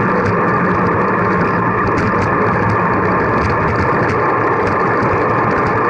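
Steady rushing wind and road noise from a moving bicycle, heard on a camera carried on the ride, with faint light ticks throughout.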